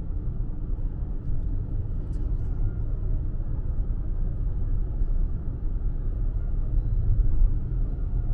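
Steady low rumble of a car driving, with even road noise and no sudden events.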